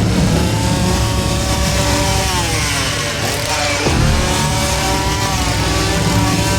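Chainsaw engine revving and easing off. Its pitch sags slowly over the first few seconds, drops sharply about four seconds in, then climbs back up.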